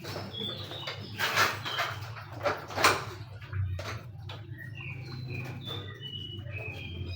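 Aviary birds calling in short whistled notes, a few near the start and a run of stepped whistles over the last few seconds. In between, about a second in, come rustling and handling noises with a sharp knock near the three-second mark, the loudest sounds here.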